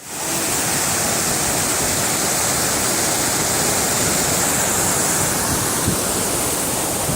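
Steady rushing of a waterfall's water pouring down onto a beach by the sea, fading in at the start.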